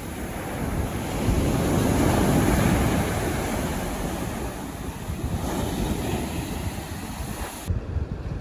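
Sea waves breaking and washing up on a beach, one wave swelling loudest about two seconds in and then receding, with wind rumbling on the microphone. Near the end the sound changes abruptly as the high hiss drops away.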